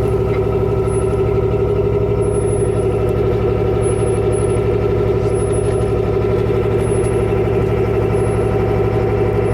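Vehicle engine running at a steady pitch, a constant, unchanging hum.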